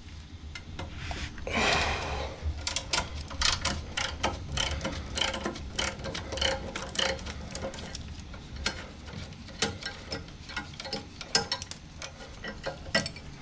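A 9/16 wrench working a bolt loose, giving a long run of quick, irregular metallic clicks like a ratchet being worked back and forth.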